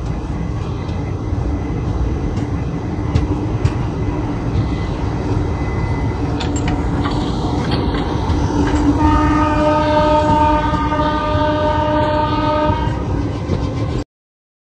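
Indian Railways express train running with a steady rumble and a few sharp wheel clicks. About nine seconds in, a train horn sounds one held chord for about four seconds. The sound cuts off suddenly near the end.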